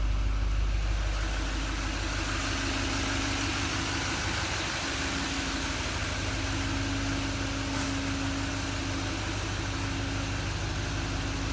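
Chevrolet 6.6L Duramax V8 turbodiesel idling steadily.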